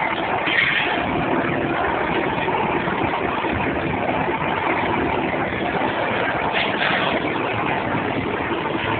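A vehicle's engine running steadily at an even level, with no change in speed.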